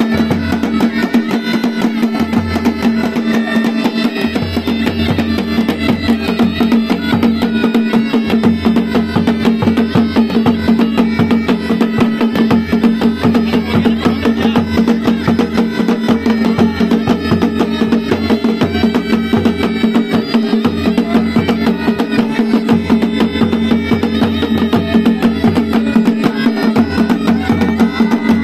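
Pahadi hill band music: mashak been (bagpipe) playing a melody over a steady drone, with dhol and nagada drums beating a fast, dense rhythm.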